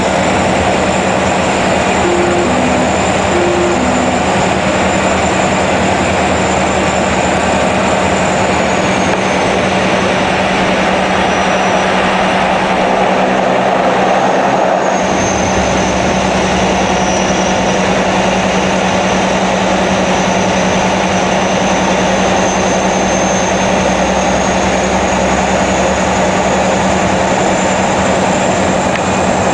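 Cessna 208B Grand Caravan's Pratt & Whitney Canada PT6A turboprop and propeller running loudly, heard from inside the cockpit. The high turbine whine sinks in pitch about eight seconds in and climbs back from about fifteen seconds. A few short two-tone beeps sound early on, two to four seconds in.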